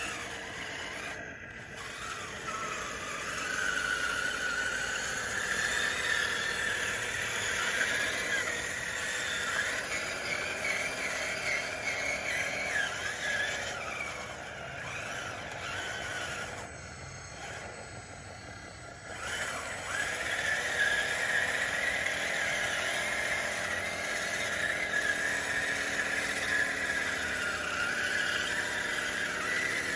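Motors of a DXR2 RC dozer whining as it drives and works, the pitch rising and falling with throttle. It eases off briefly a little past halfway, then picks back up.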